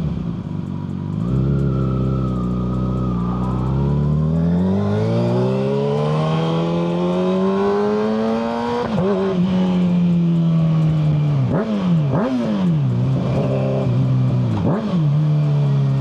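Kawasaki ZX-6R 636 inline-four through a Yoshimura full exhaust, riding: the engine pitch climbs in one long pull from about four seconds in to nearly nine, then falls and holds steady, with a few quick dips and recoveries in pitch later on.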